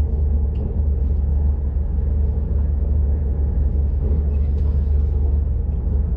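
Steady low rumble of a high-speed train running at speed, heard inside the passenger car.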